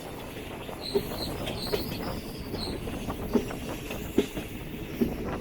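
DEMU train running over the rails, a steady rumble with five sharp wheel knocks over rail joints, irregularly spaced. A faint high squeal from the wheels sounds through the first half.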